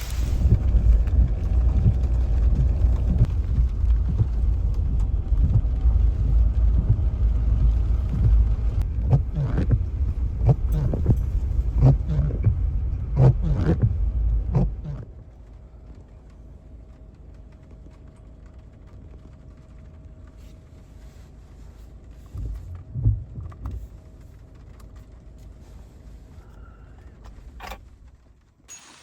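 Low rumble of a vehicle, with knocks and rattles, dropping sharply about halfway through to a quiet, steady hum.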